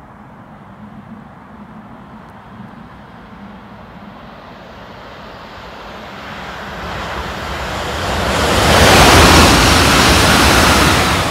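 Southeastern Class 395 'Javelin' electric high-speed train passing at speed: a rushing of wheels on rail and air that builds over several seconds as it approaches, is loudest about nine seconds in as it goes by, then begins to ease near the end.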